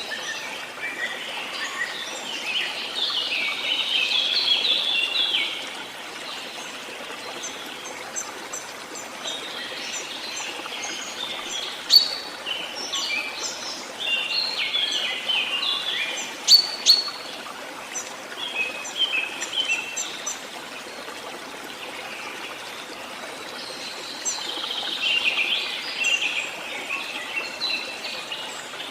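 Songbirds calling and singing in several bouts over the steady trickle of a stream, with two sharp clicks a few seconds apart near the middle.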